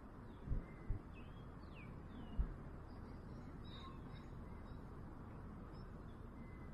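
Small birds chirping now and then, short rising and falling calls, over a steady background hiss, with a few brief low thumps in the first two and a half seconds.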